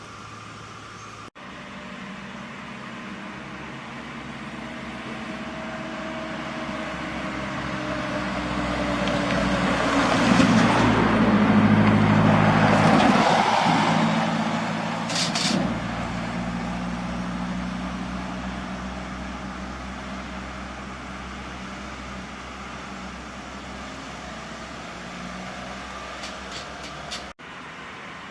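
A heavy truck's diesel engine passing by. It grows louder to a peak about halfway through and then fades away, with a brief high hiss just after the loudest point.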